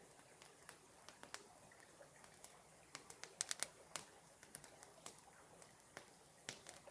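Campfire crackling: irregular sharp snaps and pops over a faint hiss, coming thickest about three to four seconds in.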